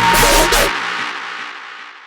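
Electronic dance music: a loud hit with deep bass that fades away over about two seconds, part of a repeating loop.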